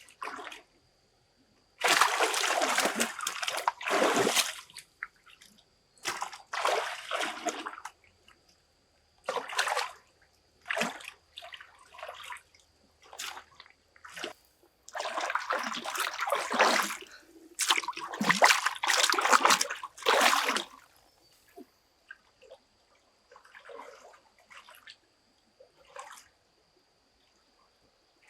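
Water splashing and sloshing in irregular bursts, each lasting about a second or two, with short quiet gaps between them. The loudest splashing comes early on and again in the middle.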